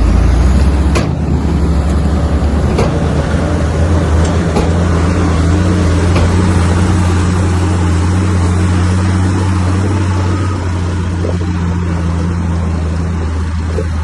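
Heavy diesel engine of earthmoving machinery running steadily under load, with a few sharp metallic clanks in the first five seconds; it eases slightly near the end.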